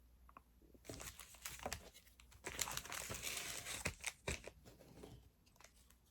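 Crinkling and rustling of baseball cards and their foil pack wrapper being handled, loudest from about two and a half to four seconds in, with a few soft clicks of cards being set down.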